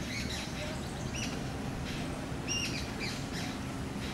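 Birds chirping: a run of short high chirps, with two clearer level whistled notes about one and two and a half seconds in, over a steady low rumble.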